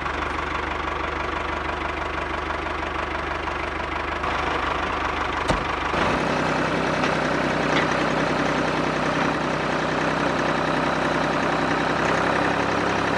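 Small motor of a homemade miniature tractor pumpset running steadily, with a rapid knocking rhythm. About five and a half seconds in there is a click, and the running note changes.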